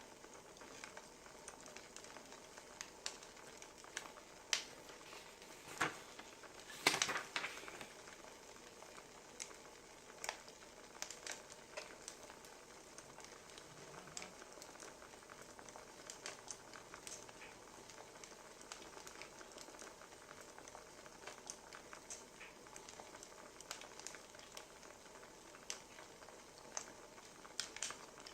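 Burning firewood crackling, with a steady hiss and irregular sharp pops, a few of them louder.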